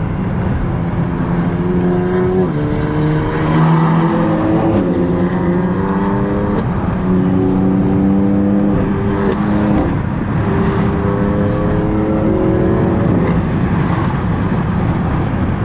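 Car engine running under load with a steady low rumble, its pitch holding and then shifting in steps several times.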